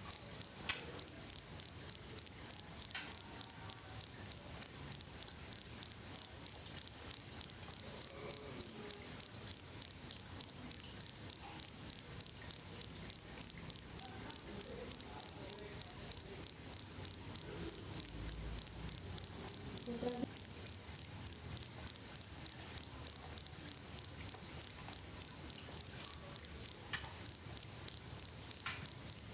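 Cricket chirping steadily: a high-pitched chirp at one pitch, repeated evenly about three or four times a second.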